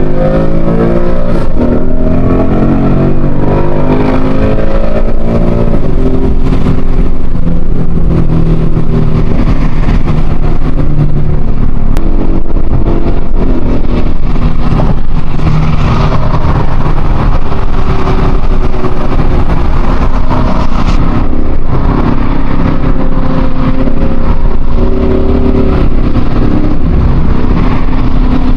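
2024 Ford Mustang GT's 5.0-litre V8 engine under way, its pitch climbing as it accelerates over the first few seconds, then running at steadier revs that rise and fall with the throttle.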